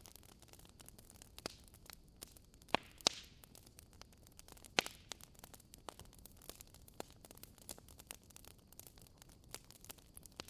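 Logs burning in a fireplace, crackling: a steady scatter of small ticks over a faint hiss, with a few louder pops, two close together about three seconds in and one near five seconds.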